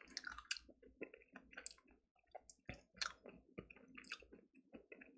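A person chewing chicken close to the microphone: faint, irregular little clicks and crunches of eating.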